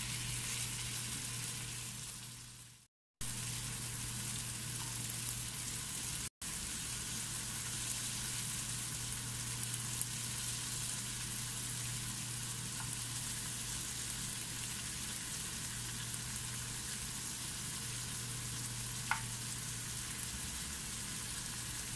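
Prawns sizzling steadily in hot coconut oil in a frying pan as they are turned over. The sizzle fades out about two seconds in and comes back a moment later.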